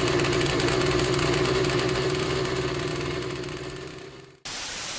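Soviet V50 two-stroke moped engine running steadily after a cold start, its sound fading out about four seconds in. It is followed by a short, even hiss.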